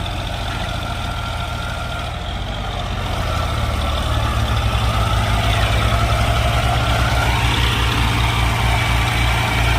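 Diesel tractor engine running hard under load in a tractor tug-of-war, with a deep, pulsing beat; it grows louder about four seconds in.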